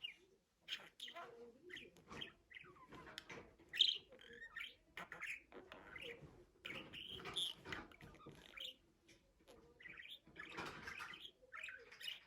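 Budgerigar chattering and warbling: a continuous run of short chirps, squeaks and gliding notes.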